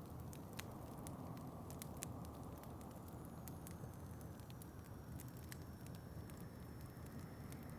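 Wood fire crackling in a fireplace, with scattered sharp pops and ticks over a steady low rush of wind. A faint, thin, high whistle sets in about three seconds in.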